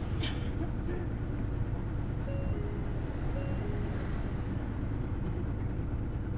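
Hino Blue Ribbon City Hybrid bus running steadily, heard from inside the cabin as a low, even drivetrain hum. A faint two-note falling chime sounds twice, about two and three and a half seconds in.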